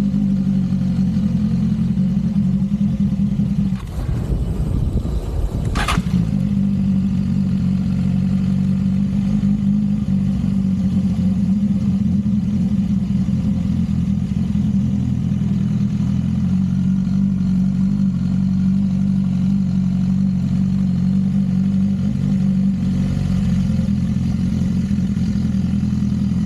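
Motorcycle engine running steadily while riding. About four seconds in its note breaks up and drops for a couple of seconds, then it settles back into its steady note.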